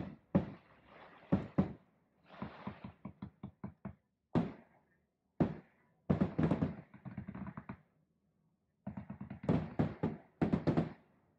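Fireworks going off: sharp bangs and rapid strings of crackling reports in bunches, with hissing between them and short pauses between the bunches.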